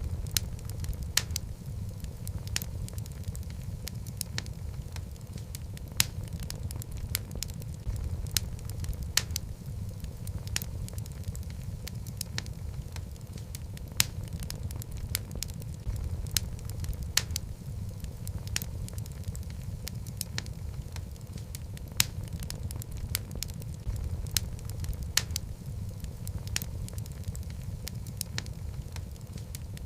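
Log fire burning in a fireplace: a steady low rumble of flames with frequent sharp crackles and the odd louder pop from the burning wood.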